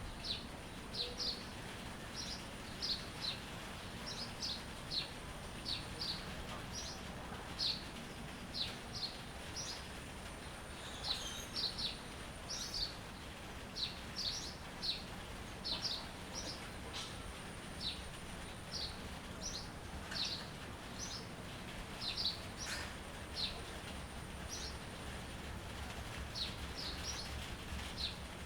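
Songbird chirping: short, high chirps repeated every second or so, often in pairs or threes, over a steady background of outdoor noise.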